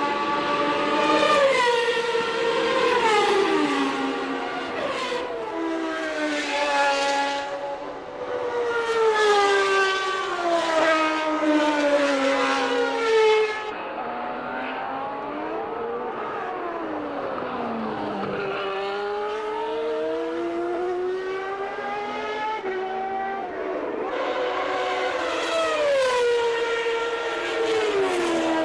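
Formula One race cars of 1989 with high-revving naturally aspirated engines running at speed, their engine notes repeatedly climbing and then dropping sharply. About halfway through, the sound turns duller as the high end cuts off.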